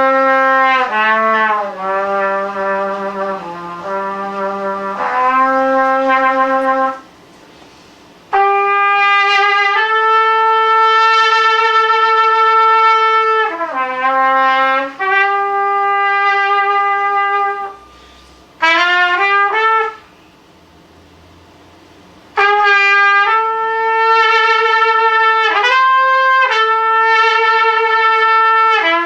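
Unaccompanied solo brass instrument playing a single melodic line of held notes and quicker runs, in phrases broken by short pauses.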